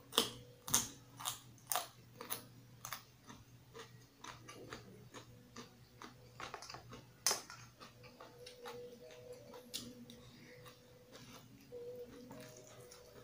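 Crunching of raw carrot sticks being chewed: sharp crisp crunches about twice a second for the first three seconds, one more loud crunch about seven seconds in, then softer, quieter chewing.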